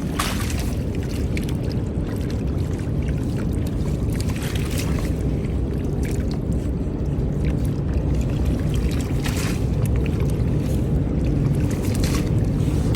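Small boat motor running steadily with a low rumble, broken a few times by brief splashing noises.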